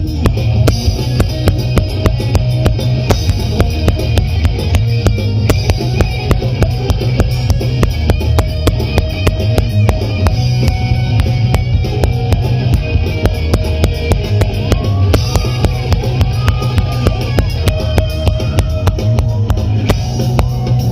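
Instrumental passage of a Bangla rock band song: a drum kit keeps a steady beat over bass and guitar, with no singing.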